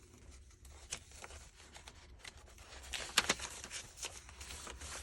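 Paper pages and tags of a handmade junk journal rustling and tapping as they are handled and turned, with a busier cluster of rustles about three seconds in.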